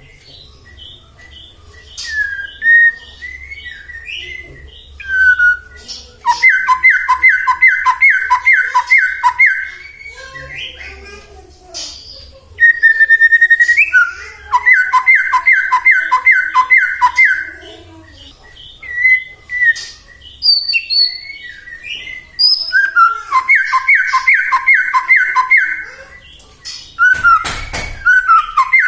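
White-rumped shama (murai batu) singing: clear whistled notes and three long runs of evenly repeated notes, roughly eight notes in each run. There is a brief burst of noise near the end.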